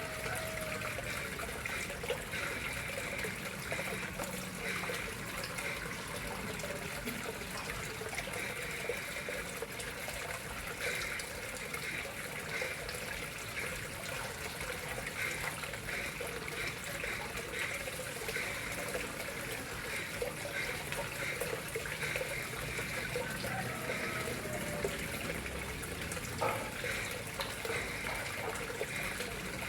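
Water running and splashing steadily into a koi pond, with a constant trickle and many small splashes.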